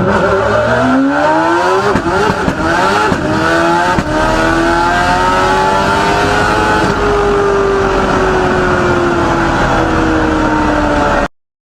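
A person imitating a car engine with their mouth: a buzzing, engine-like voice that climbs in pitch, drops sharply and climbs again twice, as if shifting up through the gears. It then holds one long tone that rises slightly and sinks before cutting off near the end.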